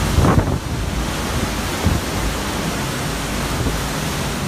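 Hurricane-force wind of Hurricane Irma blowing hard, a steady rushing noise, with a brief louder burst near the start.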